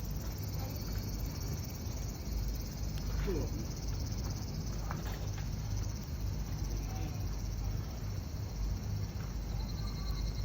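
Wood fire burning in a perforated 18-litre steel can, a steady low rumble with a few sharp crackles. Insects chirp steadily in the background.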